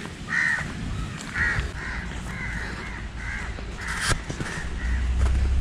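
A bird calling over and over, two to three short calls a second, with a sharp knock about four seconds in and a low rumble that swells near the end.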